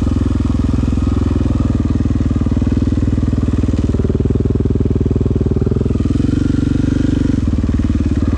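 KTM dirt bike engine running steadily under light throttle, its firing pulses even, with a slight rise in pitch about halfway through.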